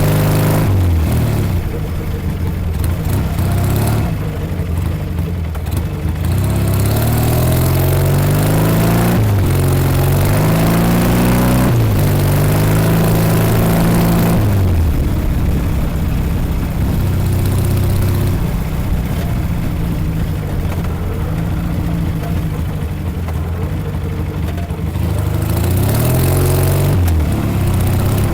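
1956 Norton Dominator 500 parallel-twin engine under way, its pitch climbing several times in a row with sudden drops between, as when working up through the gears. It then runs at a fairly steady speed for about ten seconds, drops sharply near the end and starts climbing again.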